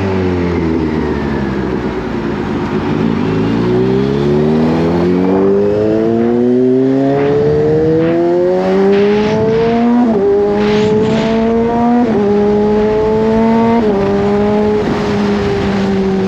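Kawasaki Z H2's supercharged inline-four engine: the note falls as the bike slows, then rises steadily under acceleration. Three upshifts about two seconds apart in the second half each drop the pitch sharply before it climbs again.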